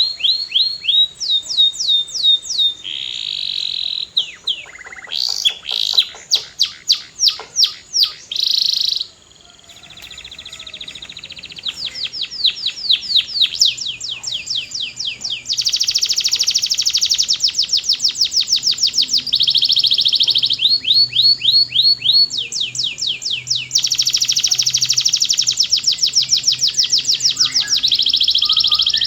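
Domestic canary singing a long, loud song built from rapid trills of repeated, downward-sweeping notes that shift from one phrase type to the next. There is a short break about a third of the way in, then long, unbroken trills.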